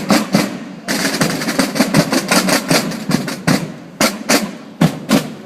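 Drums played live in rapid, dense strikes and rolls, a marching-style drum group.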